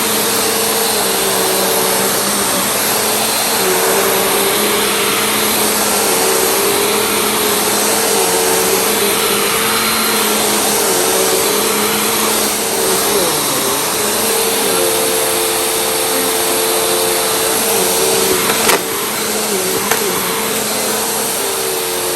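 Vacuum cleaner running steadily, its motor pitch dipping and recovering now and then, with one sharp click near the end.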